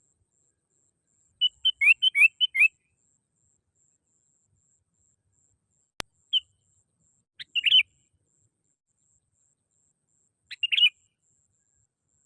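Sooty-headed bulbul (kutilang) calling: a quick run of short, chirpy notes, then two shorter phrases a few seconds apart. A single sharp click about halfway through.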